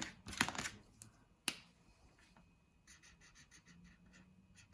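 Felt-tip marker scribbling on paper in quick back-and-forth strokes, about five a second, colouring in a small area; a single sharp click about one and a half seconds in.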